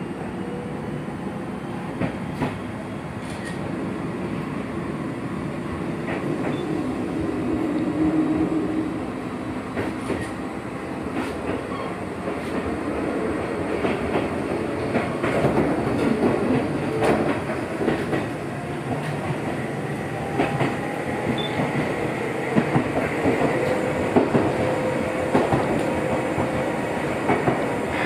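Gakunan Railway electric train running, heard from inside the car: a steady rumble with irregular clicks of the wheels over the rails and a faint whine that slowly rises in pitch.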